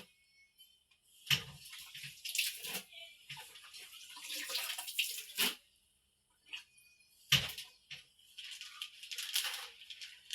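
Water sloshing and splashing in a washing basin as clothes are soaked in detergent, in irregular spells with a couple of sharp knocks.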